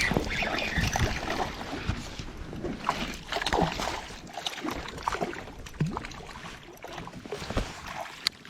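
Irregular knocks, clicks and rustles of gear handled aboard a fishing kayak, over a steady haze of wind and water noise.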